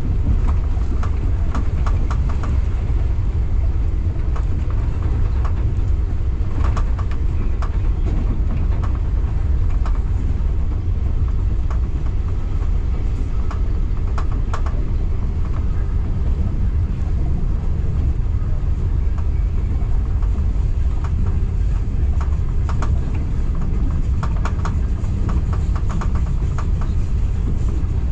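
Local passenger train running along the line: a steady low rumble of the wheels on the rails, with scattered clicks and knocks as the wheels pass over rail joints.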